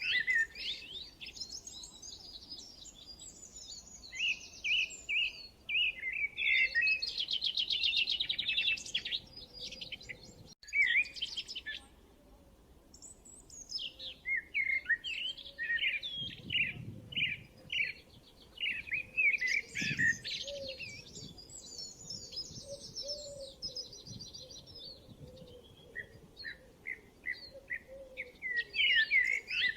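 Several songbirds singing and chirping in quick runs of high notes and trills, phrase after phrase, with a short lull near the middle.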